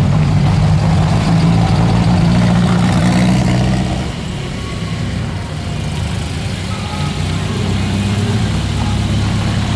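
Engine of a red and yellow Fiat X1/9-style Abarth rally car running steadily at low revs as it moves off slowly. About four seconds in, the sound drops back to a quieter vintage coupe's engine driving past at low speed, which grows louder near the end.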